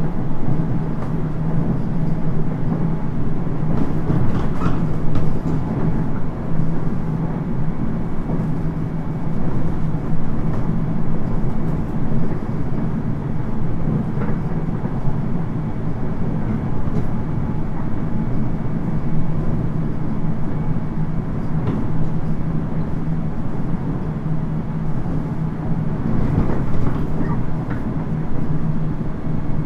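JR 719 series electric train running at steady speed, heard from inside the passenger car: a constant rumble of wheels on rail with a faint steady hum. A few short knocks and jolts from rough track stand out, about four seconds in, around the middle, and near the end.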